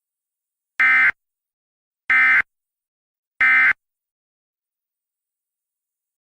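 Three short bursts of Emergency Alert System SAME digital data tones, about a second and a quarter apart: the End of Message code that closes an EAS alert.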